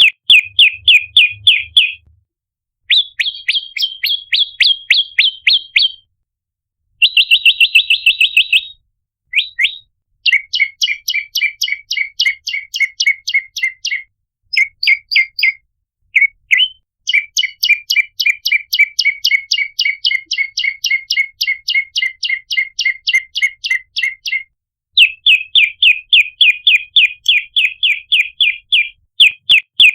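Prenjak lumut calling: rapid strings of sharp, repeated chirping notes, about four a second, in bouts of several seconds with short breaks between them.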